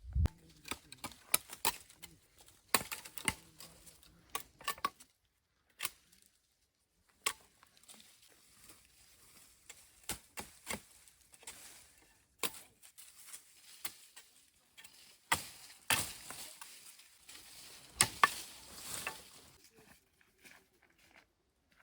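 Irregular sharp clicks and knocks of hand work, coming in flurries with scraping and rustling between them.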